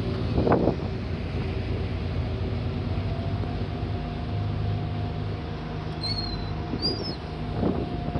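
Sightseeing boat's engine running steadily, with wind on the microphone. A few short high bird calls come about six and seven seconds in.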